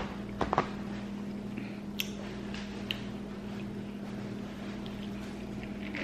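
A steady low hum, with a few soft clicks and taps about half a second in and again near two and three seconds.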